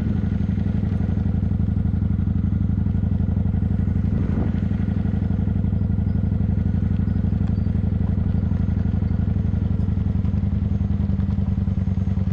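Motorcycle engine running steadily at an even, unchanging pitch, its rapid firing pulses heard as a low, constant drone.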